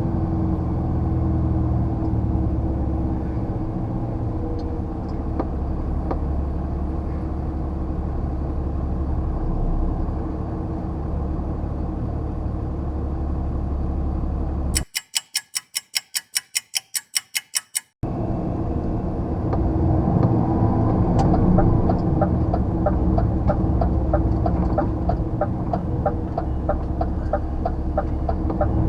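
A lorry's diesel engine running under way, heard from inside the cab. About halfway through, the engine sound cuts out for about three seconds, leaving a fast run of sharp clicks, then returns with a quick regular ticking over it.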